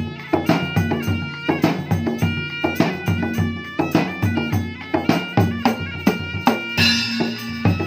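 Dangdut music: gendang drum strikes in a quick, repeating rhythm under a stepping melody line.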